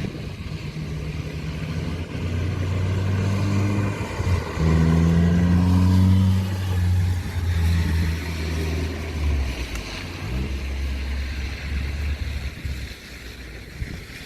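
A motor vehicle's engine running, its pitch stepping up and down as it revs, then dying away near the end.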